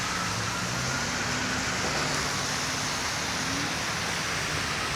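Steady road noise from an electric scooter riding on wet, salted pavement: tyres hissing on the wet surface, with faint humming tones underneath, one rising slightly about three and a half seconds in.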